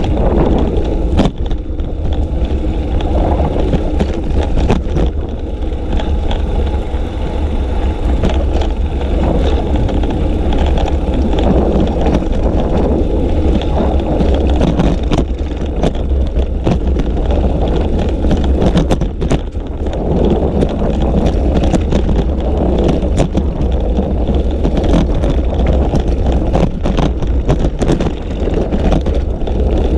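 Steady rumble of wind buffeting and road noise on a GoPro riding on a moving bicycle, with frequent small clicks and rattles from the bike going over the road surface.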